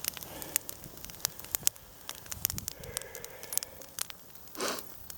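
Wood campfire crackling, with frequent sharp, irregular pops.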